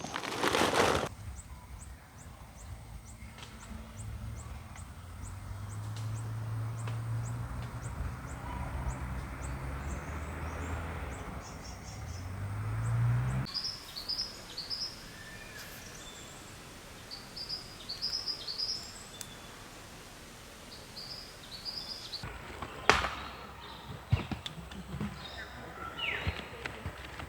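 Forest ambience in three parts. First a low engine-like hum rises in pitch and grows louder, then cuts off suddenly about halfway through. Then birds chirp in short high calls, and near the end a few sharp knocks or clicks join them.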